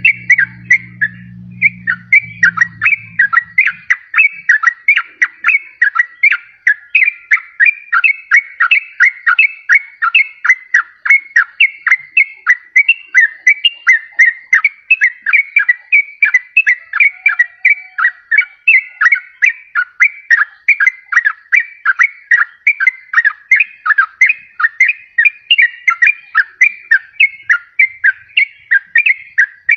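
Yellow-vented bulbul (trucukan) singing: a fast, unbroken run of short bubbly whistled notes, two or three a second, played as a lure call.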